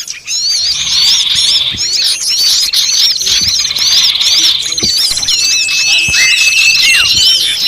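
Bird-lure recording of many small songbirds calling at once: a dense, noisy chorus of rapidly repeated high chirps over a fast buzzing trill, joined by long thin whistles from about five seconds in.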